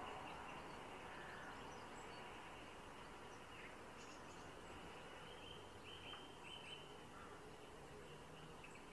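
Quiet outdoor hiss with a few faint, short bird chirps in the middle stretch.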